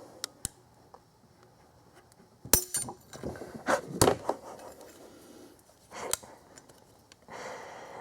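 Metal hand tools and a hose clamp clinking and clicking as they are worked on a radiator hose fitting: a handful of short, sharp clicks, the loudest about two and a half seconds in.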